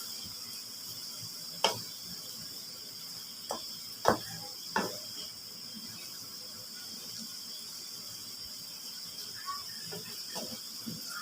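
Liver strips sizzling steadily in a hot pan over high heat, with a few sharp clicks of a stirring utensil against the pan. The loudest click comes about four seconds in.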